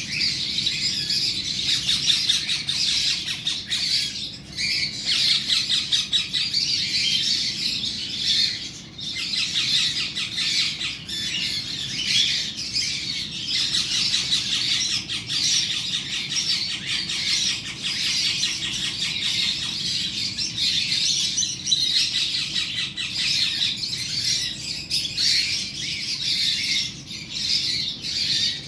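A green parrot squawking in a long, almost unbroken run of rapid, harsh, high-pitched calls, with a few short pauses.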